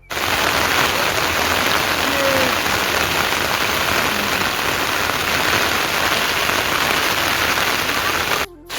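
Heavy rain falling steadily, an even hiss of drops on surfaces, cut off briefly right at the start and again shortly before the end.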